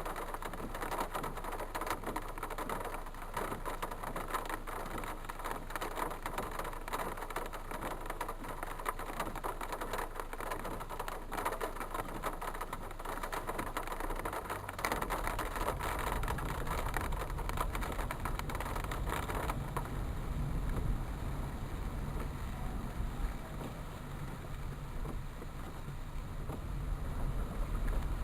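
Vehicles on a street, a steady mix of noise with a deeper low engine rumble that comes in about halfway through.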